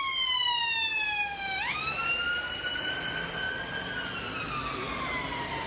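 Emergency-vehicle siren wailing. Its pitch slides slowly down, swoops back up about a second and a half in, then falls again near the end, over a steady hum of road traffic.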